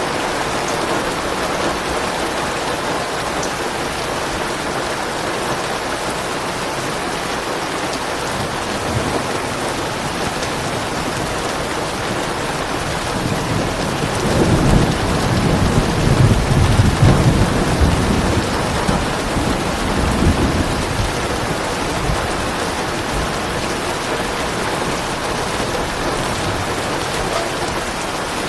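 Steady rain falling, with a low roll of thunder that builds about halfway through, rumbles for several seconds and fades away.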